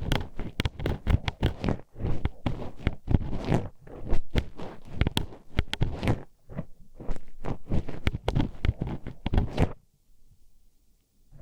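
A metal hairpin poked and scraped inside a binaural microphone's ear, giving dense, rapid clicking and scratching close up. It stops suddenly about ten seconds in.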